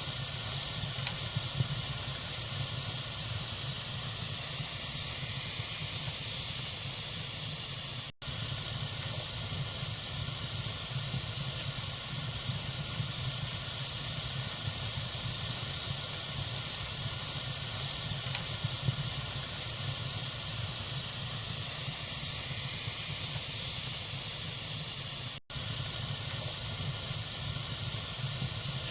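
Wood fire burning in a fireplace: a steady hiss with a few faint crackles. The sound drops out for an instant twice.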